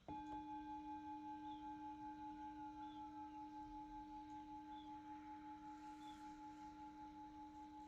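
A meditation singing bowl struck once and left to ring: a long, slowly fading tone with a low and a higher pitch and a gentle wavering pulse. It sounds the close of the meditation sit.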